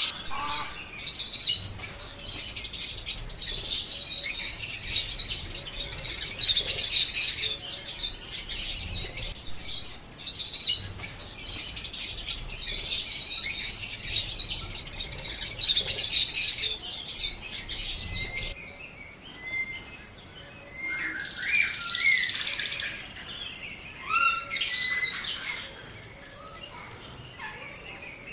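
A group of lovebirds chattering, a dense, continuous high-pitched twittering that thins out about two-thirds of the way through into scattered single calls and short rising chirps.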